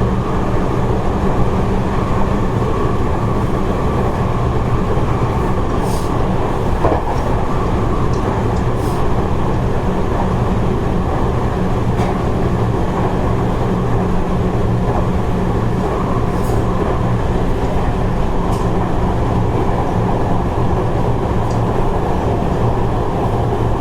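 Seibu 30000-series electric train running at a steady speed between stations, heard from inside the passenger car: an even rumble of wheels on rail with a constant low hum. A few faint ticks come through now and then.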